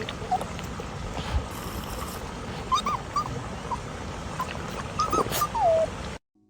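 A dog whining: short high whimpers about three seconds in and again about five seconds in, then a longer falling whine, over a steady background noise; the sound cuts off abruptly near the end.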